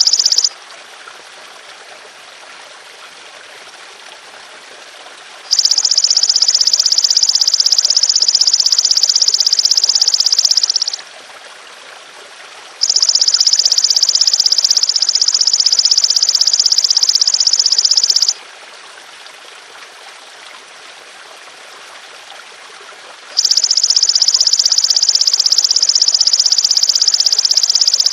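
A golden grasshopper (belalang emas) singing long, high, even trills of about five seconds each, three in a row with pauses between, the tail of an earlier one just at the start. A steady trickle of running water underneath.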